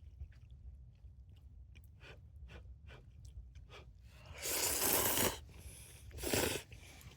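A person eating ramen: light clicks and chewing, then two loud slurps of noodles, the first about a second long, the second shorter.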